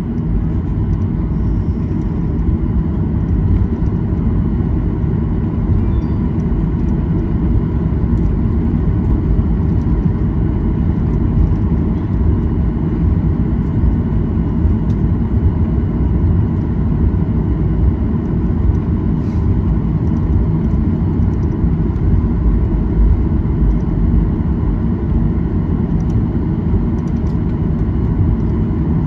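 Steady low rumble inside the cabin of a Boeing 737-800 taxiing after landing, with its CFM56 engines at taxi power and a faint steady whine above the rumble.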